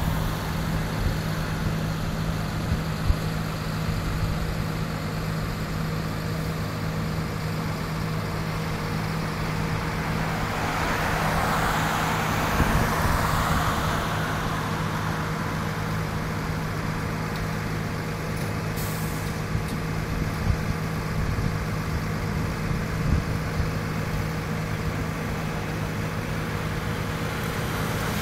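Combine harvester's diesel engine and machinery running steadily with a constant low hum. The noise swells for a few seconds about halfway through.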